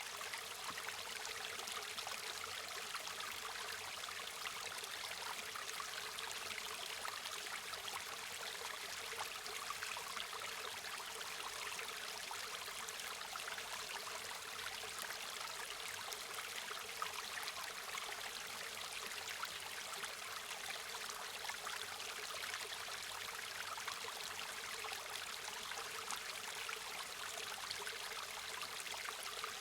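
River water running and babbling over stones, a steady, even rush with fine trickling detail.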